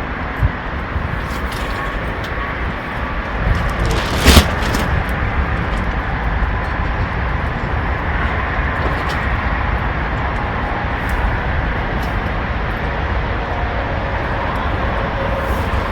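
Strong wind buffeting the microphone: a steady, loud rumble with a sharp knock about four seconds in.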